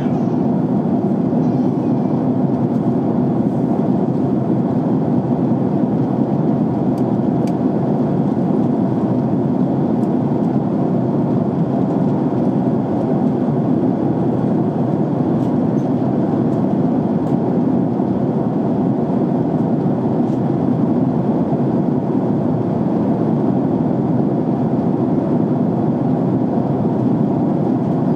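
Steady cabin noise of a jet airliner in flight: an even low rumble of engines and rushing air that holds unchanged throughout.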